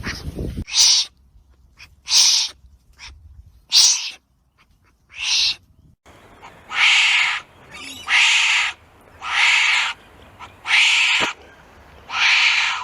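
A wombat's short raspy calls, repeated about every second and a half: nine in all, each about half a second long.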